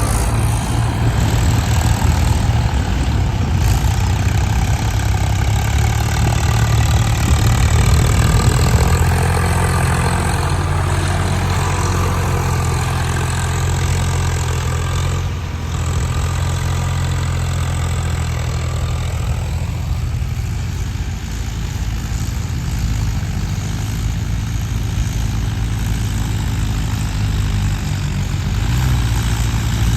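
Heavy machine's diesel engine running steadily near idle, its note shifting slightly a few times.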